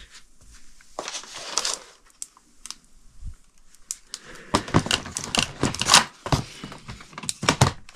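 Incandescent light bulbs being handled: a run of light clicks and clinks, sparse at first and coming thick and fast in the second half.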